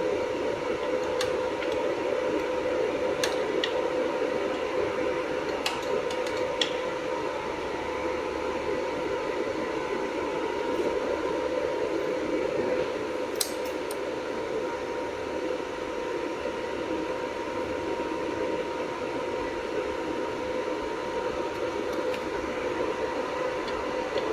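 Jewelry laser welding machine running with a steady hum that carries a constant tone, with a few sharp clicks scattered through it.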